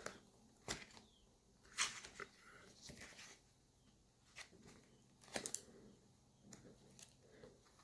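Faint handling of a paper booklet and its disc packaging: scattered light clicks and page rustles, with a quick run of three clicks about five and a half seconds in.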